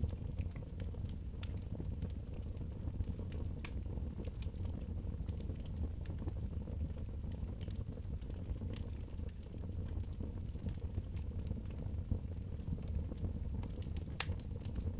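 Wood fire burning in a fireplace: a steady low rumble with scattered sharp crackles and pops at irregular moments.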